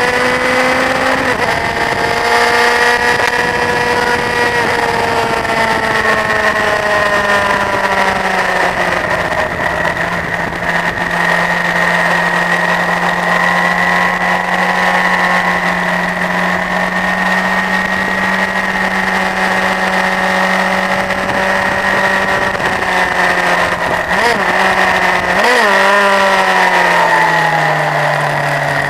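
Honda CBF1000's inline-four engine running under load at high, fairly steady revs, with a rush of wind noise. The pitch eases down over the first few seconds and then holds. About three-quarters of the way through there are two quick jumps in revs, and the revs then step lower near the end.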